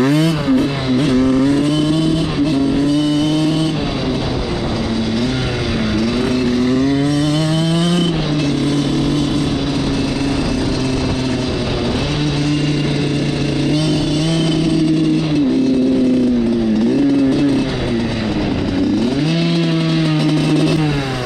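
Suzuki RM85's single-cylinder two-stroke engine under way, revving up and dropping back several times between steadier stretches.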